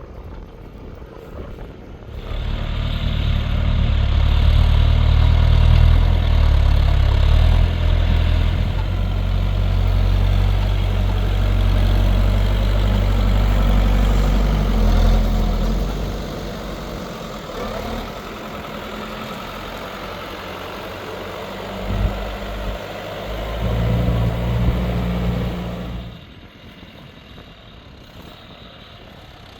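New Holland TL100 tractor's diesel engine working hard, pulling a plough through very hard, compacted ground. The engine comes in loud about two seconds in and holds a heavy, steady note. It eases after the middle, swells twice briefly, then drops off sharply near the end.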